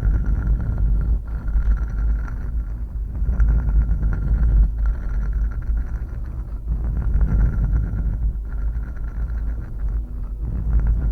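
Close-miked ASMR trigger sound: continuous scratchy rubbing with a short break about every two seconds, over a deep low rumble.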